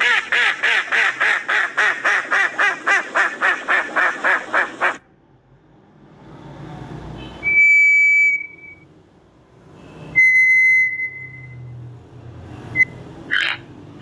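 Recorded mallard quacking fast, about four quacks a second, for around five seconds. Then a White's thrush gives two long, level whistles a few seconds apart, and near the end a toucan starts a run of short croaking calls.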